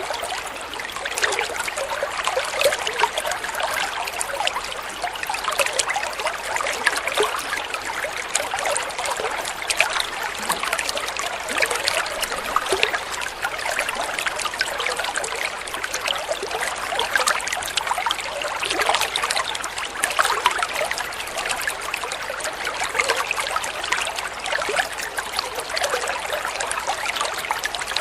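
Water flowing and trickling steadily, with many small splashes and gurgles.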